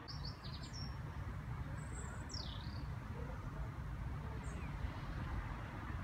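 Small birds chirping outdoors: a quick run of short high chirps at the start, a longer falling-then-rising whistle about two seconds in, and a faint chirp later, over a steady low rumble.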